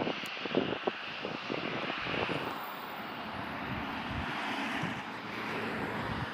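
Jet airliner engines heard from the ground, a steady rushing jet noise, with wind buffeting the microphone in short thumps over the first couple of seconds.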